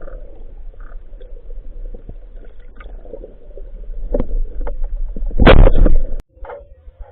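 Muffled water and bubble noise, as heard by a camera underwater, with scattered clicks and a louder gurgling burst about five and a half seconds in that cuts off abruptly just past six seconds.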